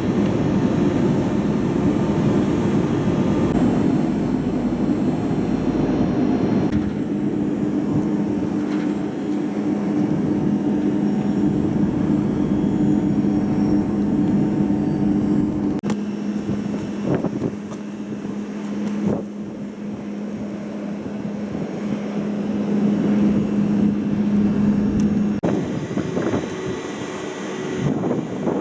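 A steady low mechanical hum over a constant rushing noise. The hum holds two steady pitches from about a quarter of the way in and stops a few seconds before the end.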